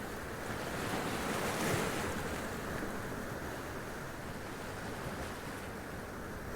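Sea waves washing up onto rocks and splashing, a steady surf that swells briefly a little under two seconds in.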